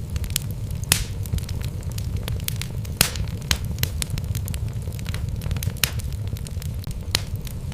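Wood fire burning in a fireplace: a steady low rumble of the flames under irregular sharp crackles and pops from the logs, the loudest a pop about a second in and another about three seconds in.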